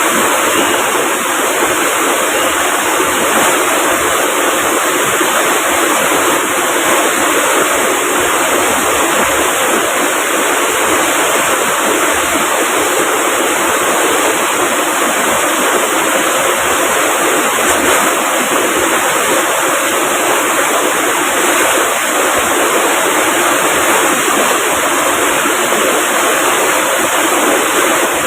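River water rushing steadily over rocks, a loud, unbroken roar of water with no pauses.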